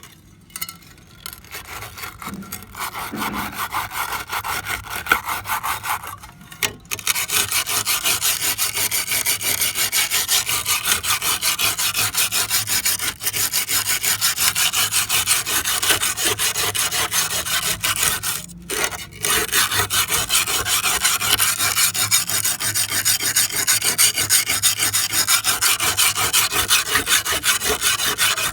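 Fast, even rasping strokes of an abrasive working an old trowel. The rubbing starts quieter and uneven, then settles into a steady, loud rhythm about seven seconds in, with a brief break about two-thirds of the way through.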